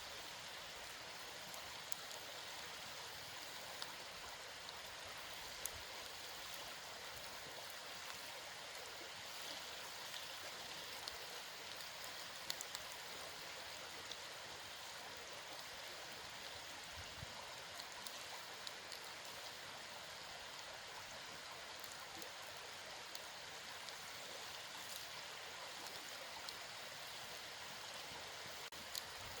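Campfire burning: a steady hiss with scattered sharp crackles and pops.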